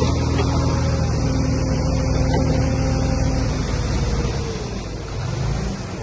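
Heavy diesel earthmoving machinery running under load, its engine note easing and dropping about four seconds in.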